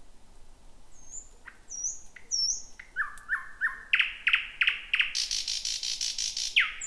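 Thrush nightingale singing one song phrase: a few thin high whistles, then a run of short down-slurred notes building into loud, spaced strokes, then a fast dry rattle of about ten notes a second, closed by a single down-slurred note.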